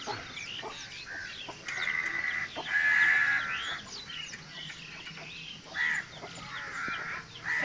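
Birds calling outdoors: many short chirps throughout, with several longer, harsher calls repeated a few times.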